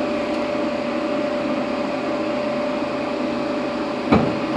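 Steady mechanical hum with a constant tone through it, like a shop fan or blower running, and one sharp knock near the end.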